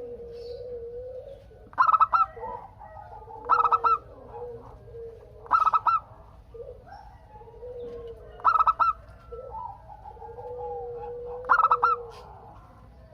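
Zebra doves (perkutut) cooing. Five loud bursts of quick staccato coos come every two to three seconds, over softer, lower drawn-out cooing.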